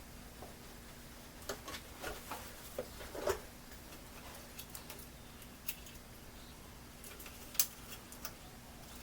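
Scattered light clicks and taps of small objects being handled, with a sharper click near the end, over a faint steady hum.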